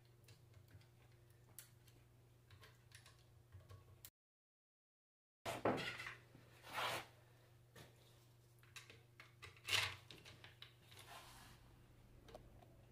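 Scattered clicks, knocks and clatter of alternator parts and tools being handled on a workbench, over a steady low hum, with a few louder scraping, rustling handling sounds about six to seven and ten seconds in. The sound cuts out completely for about a second a little past four seconds.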